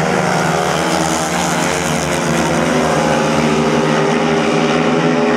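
Several speedway motorcycles' single-cylinder engines racing together at high revs through a turn, their overlapping notes rising and falling in pitch as the riders work the throttles.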